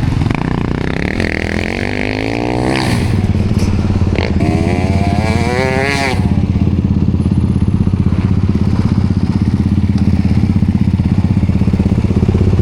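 Motorcycle engine accelerating: the pitch climbs, breaks off about three seconds in, and climbs again, like a shift up a gear. From about halfway through it runs at a steady pitch.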